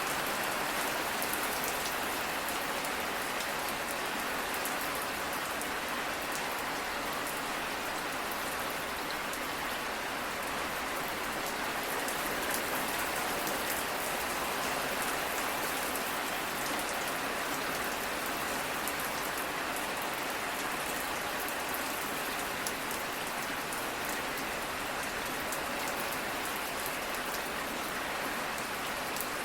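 Steady rain falling on a surface, an even hiss with fine drop patter and no thunder.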